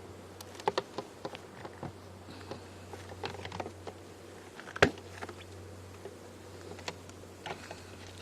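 Honeybees buzzing around an opened beehive, a steady low hum, with scattered clicks and knocks of hive equipment being handled; one sharp knock about five seconds in.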